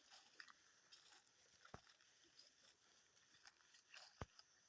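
Near silence: faint outdoor ambience with scattered small clicks, and two brief sharp ticks, one about a third of the way in and one near the end.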